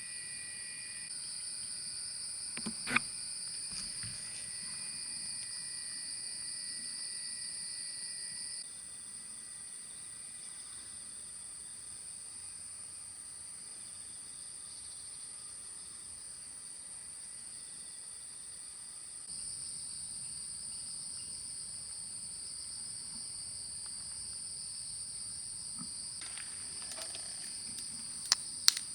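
Steady, high-pitched chorus of singing insects such as crickets, which drops back a little between about 9 and 19 seconds in. A sharp click comes about 3 seconds in and a few more come near the end.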